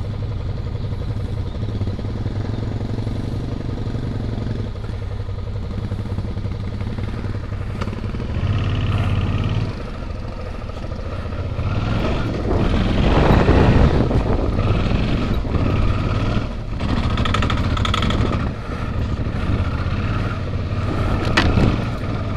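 Suzuki V-Strom's V-twin engine running as the motorcycle rides a rough dirt track, heard from on the bike, the throttle opening in several surges and easing off between them. A sharp knock sounds near the end.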